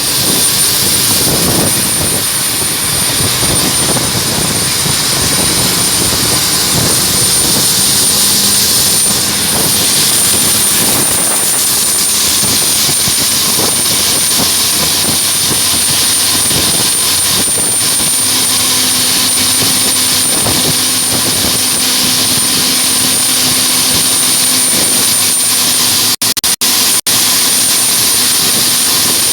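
Jet engines of an Ilyushin Il-76 cargo plane running: loud, steady rushing with a constant high whine. The sound cuts out briefly three times near the end.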